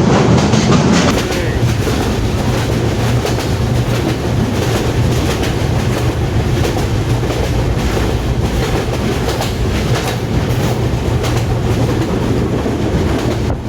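Sundarban Express passenger train running at speed, heard from on board: a steady rumble with a stream of clicks and clacks from the wheels over the track.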